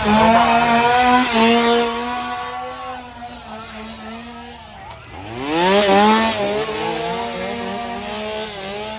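A chainsaw revved hard and held at high speed. About five seconds in it drops off, then revs straight back up.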